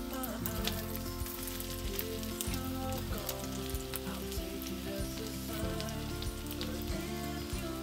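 Oil sizzling and crackling under oatmeal and cabbage fritters frying in a pan, with background music playing throughout.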